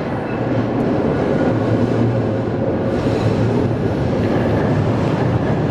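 Tram car running through an underground tram tunnel: a steady rumble of wheels on rails that grows slightly louder as it approaches.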